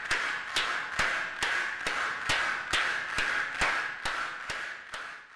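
Steady rhythmic hand clapping, about two claps a second at an even tempo, over a continuous background sound. It fades out at the very end.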